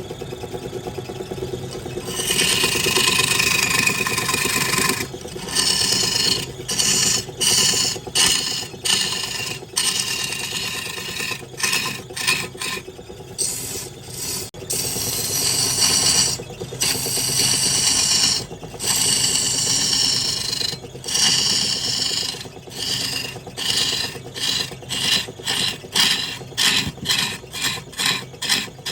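Wood lathe humming steadily while a tool scrapes the spinning wood in repeated passes. The passes start about two seconds in and become quick, regular strokes of about two a second near the end.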